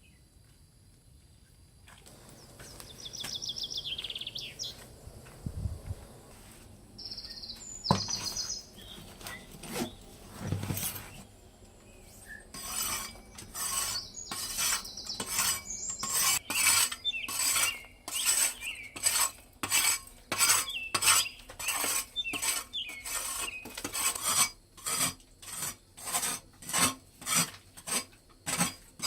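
A few bird chirps, then from about halfway a hand tool scraping in steady, even strokes, about two a second.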